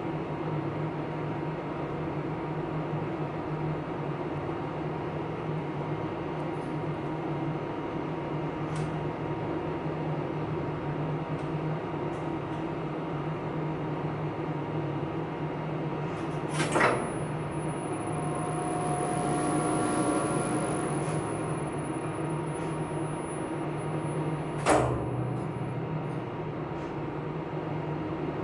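Elevator machine room equipment humming steadily with a low drone and a faint steady tone. About two-thirds of the way in, a sharp clunk is followed by a thin high whine and a gentle swell as the machine runs for about eight seconds, ended by a second clunk.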